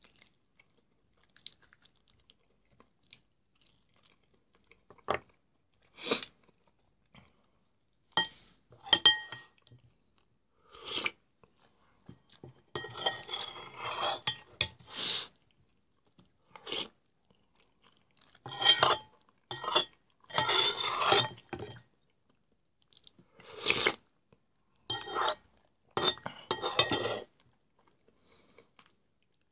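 A person chewing and gnawing meat off a duck leg bone, with wet, crunchy mouth sounds. The sounds come in about ten irregular bursts with quiet gaps between them.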